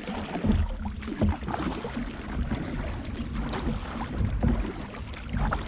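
Sea kayak moving on the water: irregular splashes and sloshing, with wind buffeting the microphone as a low rumble.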